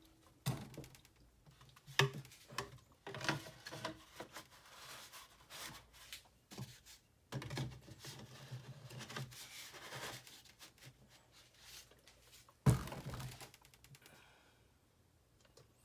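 Irregular clicks and knocks of small hard objects being handled, with a louder knock about two-thirds of the way through, then quiet near the end.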